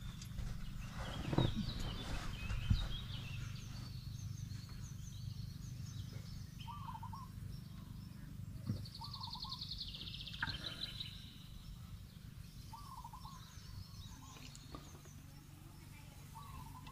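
Birds calling: a short rising-and-falling call repeated every few seconds, with scattered higher chirps and a rapid high trill about nine seconds in, over a steady low hum. A couple of soft knocks in the first three seconds.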